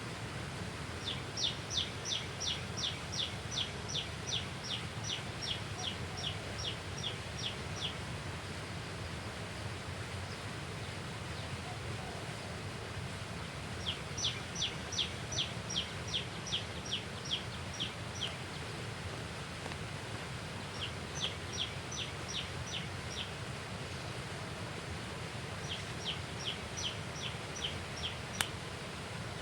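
A bird calling in four runs of quick, high, down-slurred notes, about three a second, the first run the longest. Under it runs a steady low rushing noise, and there is one sharp click near the end.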